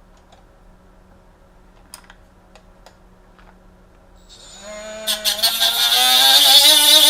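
A few faint clicks of handling, then, about four and a half seconds in, a handheld power tool's motor spins up and runs loud, with a wavering whine that climbs a little in pitch over a strong high hiss.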